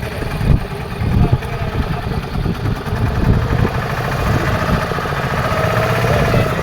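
Fishing boat's engine running steadily with a continuous, even rumble.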